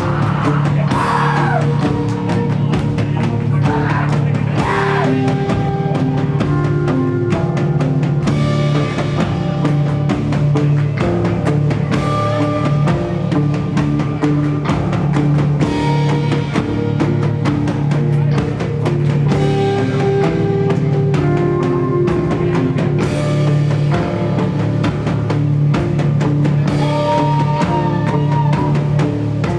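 A rock band playing live, with a full drum kit keeping a steady beat under sustained instrumental notes.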